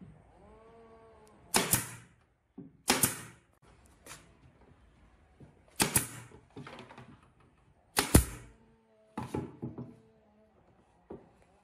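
A series of sharp knocks and clacks of hard objects being struck or set down, about five loud ones spread irregularly with smaller taps between them, and a short squeak that rises and falls in the first second.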